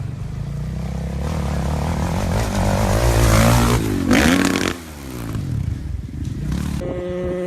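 Dirt bike engines revving on a motocross track, the pitch climbing, with one bike passing close by about four seconds in. Near the end the sound cuts abruptly to a steadier engine tone.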